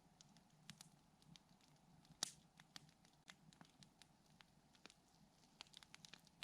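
Wood campfire crackling, with scattered sharp ticks and pops and one louder pop about two seconds in.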